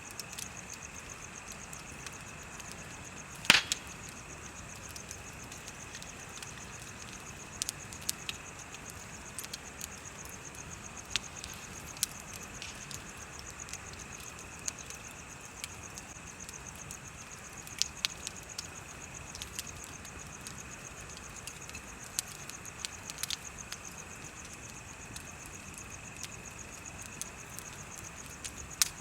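Bonfire crackling with scattered sharp pops, the loudest about three and a half seconds in, over a steady high chirping of insects.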